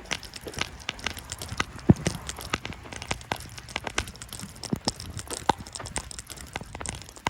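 Footsteps crunching through fresh snow: a run of short, crisp crackles and crunches.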